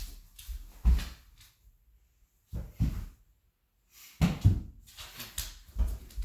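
Irregular dull thumps and knocks of a giant Alaskan malamute's heavy paws on the floor as it walks around a table, with two short quiet gaps.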